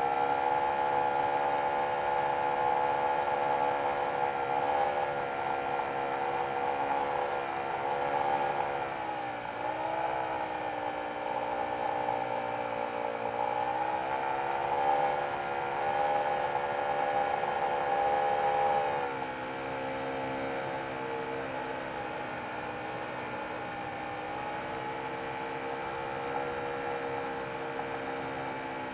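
Nitro glow engine of a large RC airplane running in flight, its pitch dipping and rising again several times as the throttle changes. About two-thirds of the way through it throttles back and runs on at a lower, quieter pitch.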